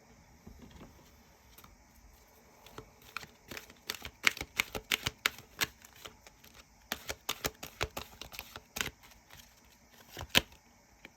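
Tarot cards being handled on a table: a run of sharp clicks and taps, several a second, starting about three seconds in, with a brief pause in the middle and one last loud tap near the end.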